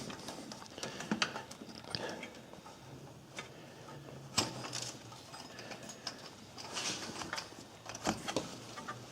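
Scattered light clicks, taps and rubbing as hands work the slackened rubber timing belt off the engine's pulleys and sprockets.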